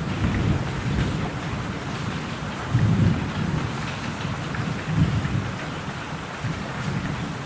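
Steady rain with low rolling thunder rumbling beneath it, swelling briefly about three seconds in and again about five seconds in.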